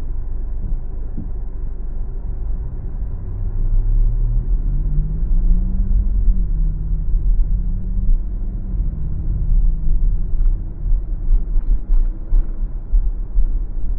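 Car driving on a city street with a steady low road and engine rumble. About four seconds in the engine note rises as the car speeds up, holds, then drops off about nine seconds in.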